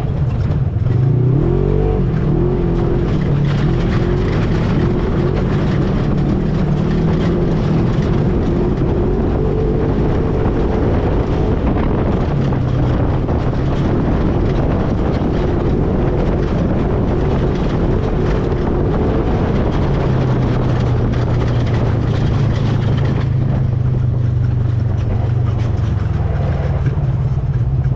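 ATV engine running under way, its pitch rising about two seconds in and wavering with the throttle, then settling into a steadier low drone for the last third, over constant rumble and wind noise.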